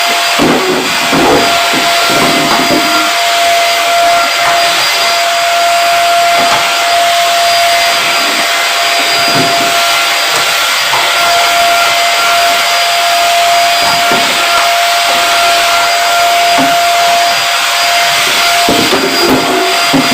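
Pensonic vacuum cleaner running steadily: an even rushing noise with a constant high whine from the motor. Scattered light knocks sound under it.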